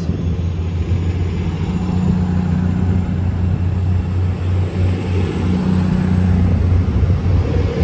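Class 222 Meridian diesel multiple unit going by, its underfloor diesel engines running with a steady low hum over wheel and rail noise.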